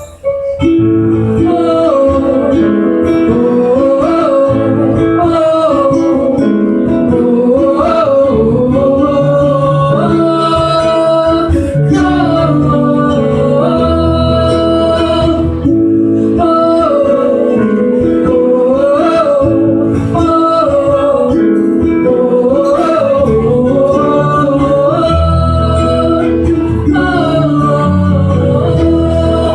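Live band playing an instrumental break in a pop-rock song: a lead melody that bends and slides in pitch over guitar chords and a bass line, with no lyrics sung.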